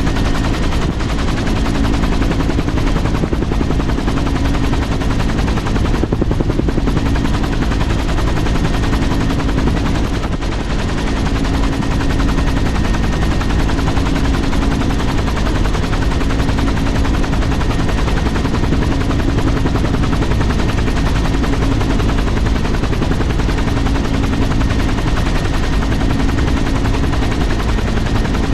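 Aircraft running loud and close, a steady rapid pulsing beat over a low engine drone.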